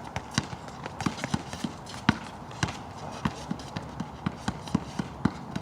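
A basketball bouncing on a wet outdoor court during play: a string of irregular sharp thumps, about two or three a second, some louder than others.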